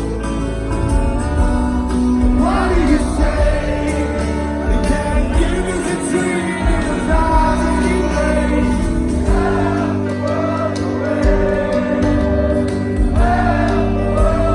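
Live band music with singing: a sung melody over a steady band accompaniment.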